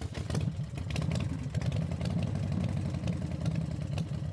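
John Deere D155 lawn tractor engine running steadily.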